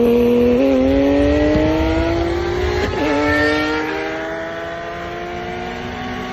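Car engine at full throttle, accelerating through the gears: a steadily climbing pitch broken by two short dips at the upshifts, about half a second in and about three seconds in. It grows fainter in the second half.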